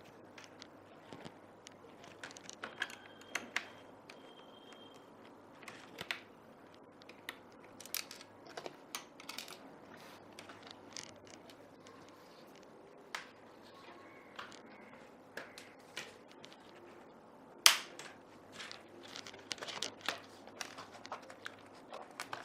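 Scattered clicks and plastic snaps as a laptop's display bezel is unscrewed and pried off its plastic clips, with one sharp, louder snap about three-quarters of the way through followed by a flurry of clicks.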